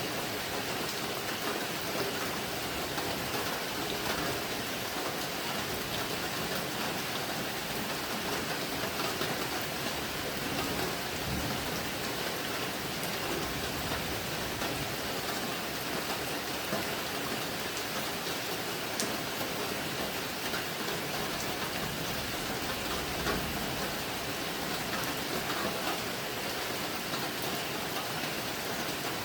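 Steady rain falling on and around a simple hut, an even dense hiss of drops, with a low rumble twice, which may be distant thunder.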